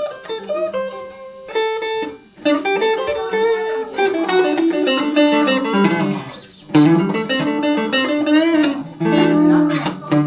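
Electric guitar, a Telecaster played through a Roland JC-120 amp, plays a blues instrumental fill of single notes and chords between vocal lines. It pauses briefly a couple of times.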